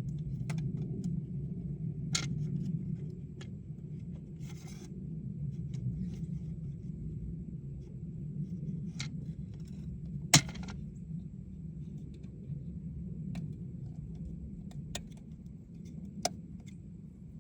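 Scattered small metallic clicks and clinks of distributor parts and tools being handled, with one sharp click about ten seconds in, over a steady low rumble.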